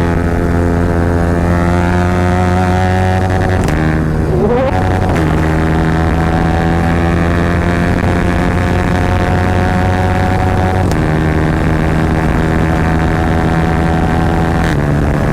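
Yamaha R15 single-cylinder engine running hard at high, steady revs through an Akrapovic aftermarket exhaust at high road speed. About four seconds in the revs drop briefly and climb back.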